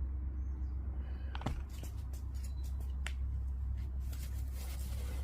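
Cold-patch asphalt mix being handled and poured from its bag into a pothole: a few sharp clicks, then a short burst of rustling and scattering about four seconds in, over a steady low rumble.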